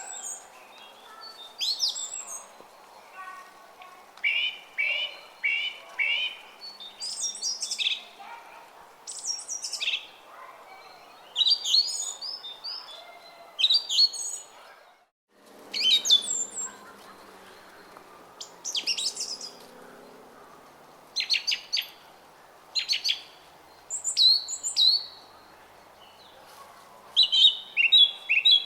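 Songbirds chirping and singing in short repeated phrases, several calls every few seconds, over the steady murmur of a flowing brook. About halfway through, all sound cuts out for a moment, then resumes.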